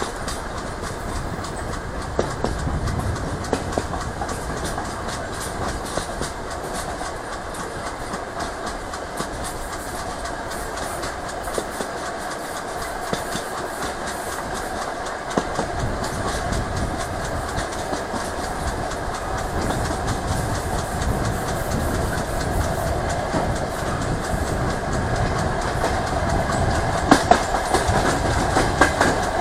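DR1A diesel multiple unit under way, heard through an open carriage window: steady running noise with wheels clicking over rail joints. It grows louder through the second half, with a few sharper clacks near the end.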